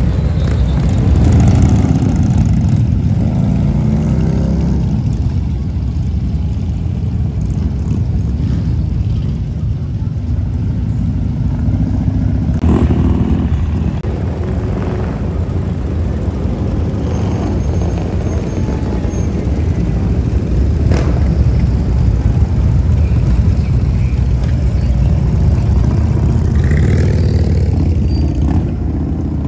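Motorcycle engines rumbling in slow street traffic, with bikes revving up now and then, most clearly in the first few seconds.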